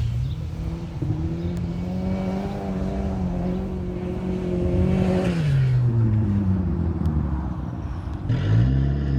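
Volvo 740 Turbo's turbocharged four-cylinder engine under load. Its pitch climbs in the first second and holds high for several seconds, then drops as the throttle comes off. Near the end the revs swing quickly up and down.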